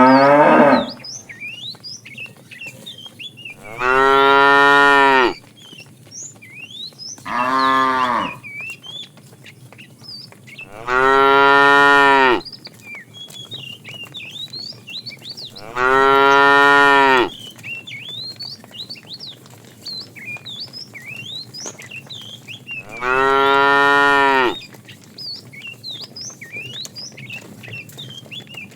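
A cow mooing repeatedly: six long, loud moos a few seconds apart, each held at a steady pitch.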